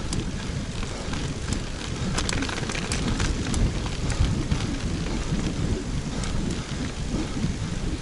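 Wind buffeting the action camera's microphone while riding a road bike, a steady low rumble mixed with tyre noise on the road, with scattered sharp ticks about two to four seconds in.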